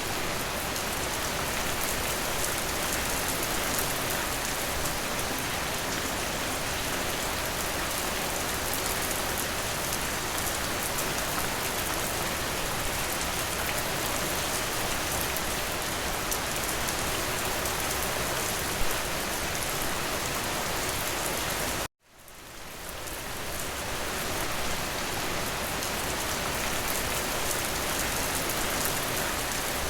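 Steady, dense rain. About three quarters of the way through it cuts out suddenly to silence and swells back in over a second or two.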